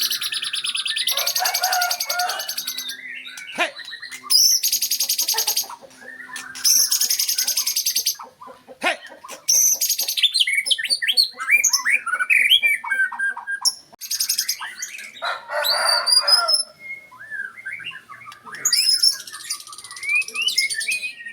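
White-rumped shama singing a long, varied song: quick whistled notes and glides broken up by several loud, rapid buzzing rattles of a second or two each. It is a shama in full song, the kind of recording used to set a silent shama singing.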